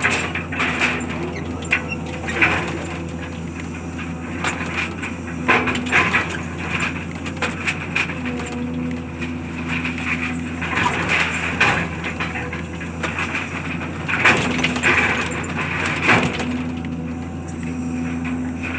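Demolition work: an engine runs steadily while building debris cracks and crunches irregularly, with repeated sharp snaps of breaking material.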